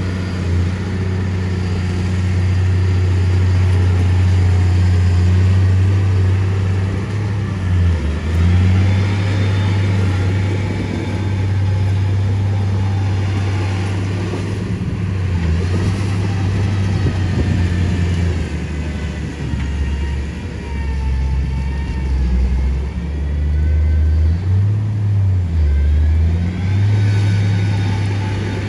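Heavy diesel engine of earthmoving machinery running under load, with a deep, loud drone. Its pitch dips and recovers several times, around a third of the way in and repeatedly in the last third.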